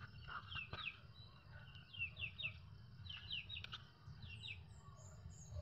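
Birds chirping faintly: short falling chirps in small clusters, then a quick run of high, thin notes near the end.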